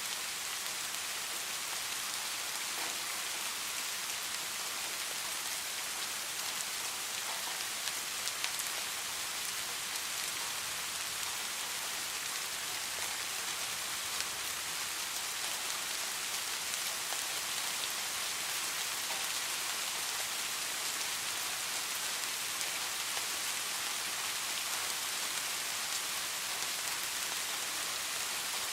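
Steady rain falling, a dense even hiss, with a few louder individual drop ticks about a third of the way in and again about halfway through.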